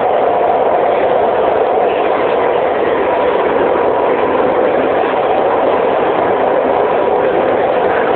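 Beijing subway train running, heard from inside the driver's cab: a steady, loud noise of wheels and running gear with a faint steady tone.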